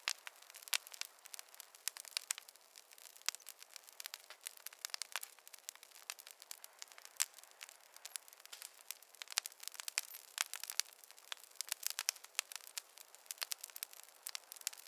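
Campfire crackling: a steady stream of irregular sharp snaps and pops from burning wood over a faint hiss.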